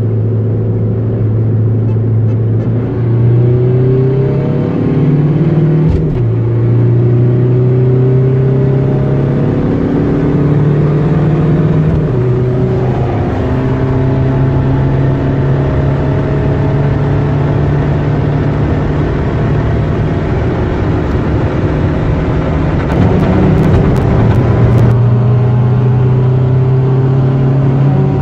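Opel Corsa's tuned 1.7 DTI turbo-diesel, fitted with a hybrid turbo running about 1.0 bar of boost, heard from inside the cabin pulling hard at highway speed. The engine note climbs and drops back several times as it goes up through the gears.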